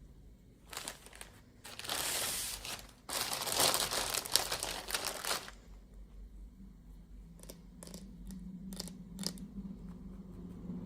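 Packaging being crinkled and torn open by hand in three bursts, the longest near the middle, followed by a few light clicks as it is handled.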